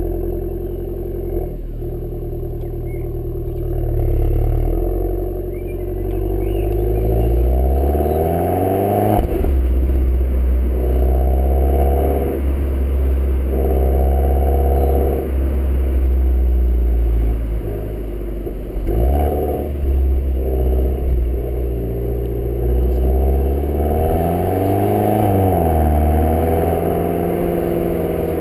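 Alfa Romeo MiTo 135's 1.4 turbo four-cylinder engine on its stock exhaust, with a K&N panel air filter, running and revving. The engine note climbs steadily over several seconds, then holds higher with a few brief dips, and rises and falls briefly near the end.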